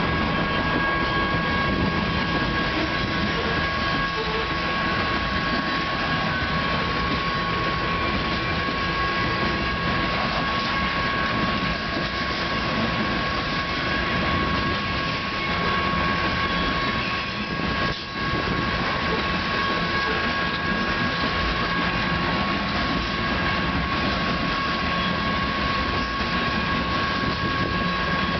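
Coal hopper cars of a freight train rolling past: a steady rumble and clatter of wheels on rail, with two steady high-pitched tones running through it.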